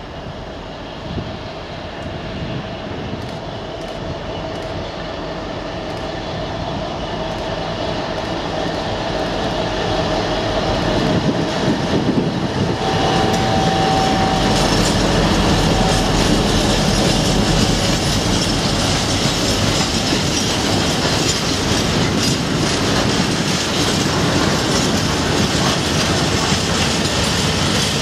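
Class 60 diesel locomotive with a Mirrlees eight-cylinder engine hauling a heavy freight train. It grows steadily louder as it approaches and passes about 12 seconds in. The covered steel wagons then roll past, their wheels clicking over the rail joints.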